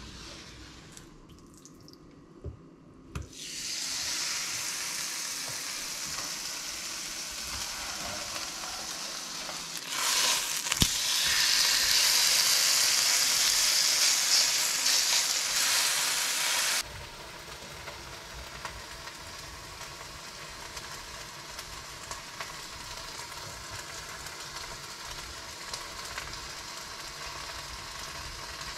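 Chicken breast frying in a nonstick pan, a steady sizzling hiss that starts a few seconds in and grows louder, then cuts off suddenly about halfway through. A fainter hiss with small utensil clicks follows.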